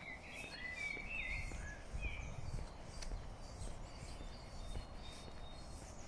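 A songbird sings a short run of whistled, gliding phrases over the first two seconds or so. Footsteps tread a paved road at a steady walking pace, about one and a half steps a second, over a low rumble.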